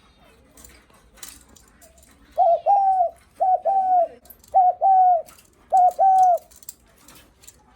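Spotted dove cooing its greeting coo: four two-part coos about a second apart, each a short note followed at once by a longer one. Faint scattered clicks sound between them.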